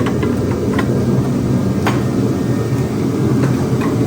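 A steady low mechanical rumble, with a few sharp metallic clinks of tools on the truck's exhaust parts scattered through it.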